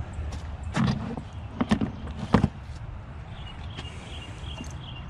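Four sharp knocks and clunks of metal scrap being handled, the last and loudest about two and a half seconds in, over a steady low hum.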